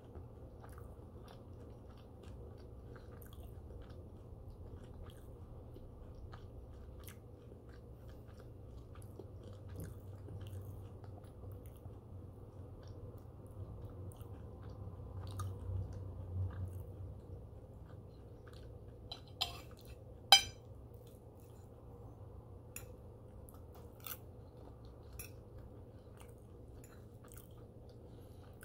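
A man chewing food close to the microphone, mouth closed: soft, quiet mouth sounds with scattered small clicks over a low steady hum, and one sharp click about two-thirds of the way through.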